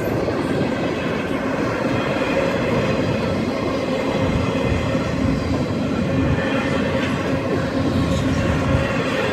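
CSX freight train rolling through a grade crossing: a steady rumble and clatter of wheels on the rails, with a faint steady ringing tone running through it.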